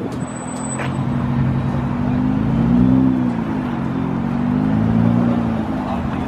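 A car engine running, its pitch rising and falling gently as the revs change, with the loudest swell about halfway through.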